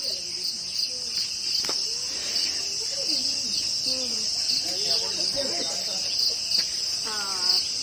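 Insects chirring outdoors: a steady, high-pitched drone with a regular pulse running through it.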